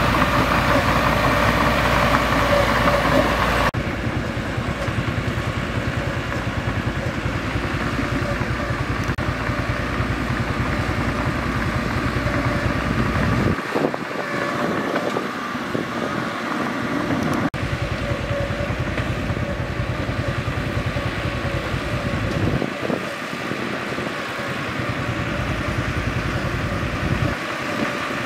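Mitsubishi bulldozer's diesel engine running steadily while working, its sound changing abruptly about four seconds in and again about halfway through.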